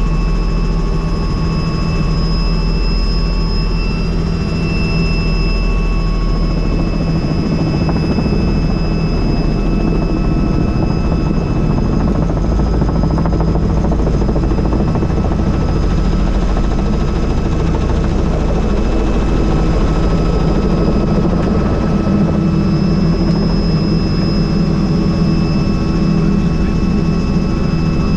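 Helicopter heard from on board with the doors off: steady, loud rotor and engine noise with a thin high turbine whine held throughout.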